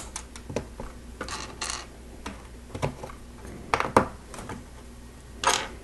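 Plastic Lego bricks being handled and snapped together: scattered sharp clicks with a few short rustles of pieces being moved.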